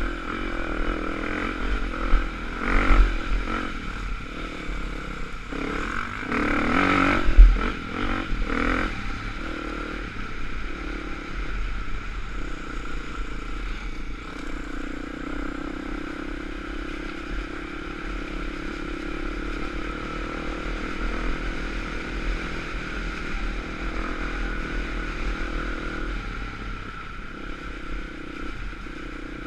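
Off-road dirt bike engine running steadily while being ridden, with a run of clattering knocks between about 2 and 9 seconds in, the loudest near 7 seconds.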